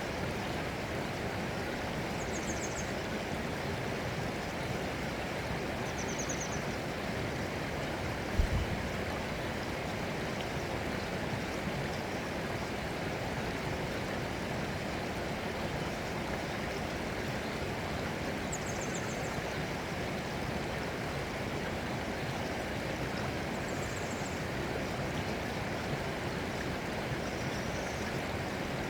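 Steady rushing water of a stream. A few brief high chirps come and go over it, and there is one short low thump about eight seconds in.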